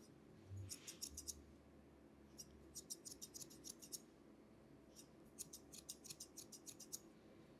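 Barber's scissors snipping hair in quick runs of crisp snips, three runs with short pauses between them.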